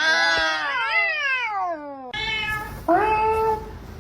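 A cat meowing: a long, drawn-out meow that rises and falls in pitch, then two shorter, steadier meows in the second half.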